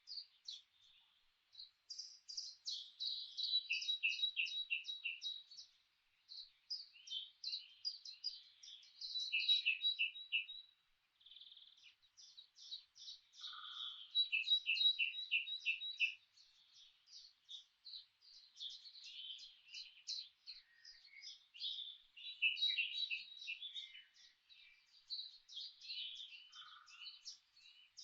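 Songbirds singing in quick, high chirping phrases with short pauses between them; several phrases end in a run of evenly repeated lower notes.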